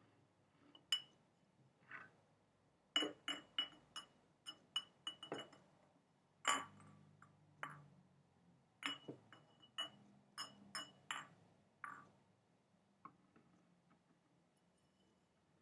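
Tapping on a glass container: short ringing clinks, some single and others in quick irregular runs of taps with pauses between.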